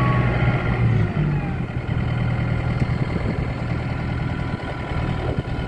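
2020 Kubota M4-071 tractor's four-cylinder diesel engine dropping from raised revs back toward idle in the first second or so, then running steadily at idle.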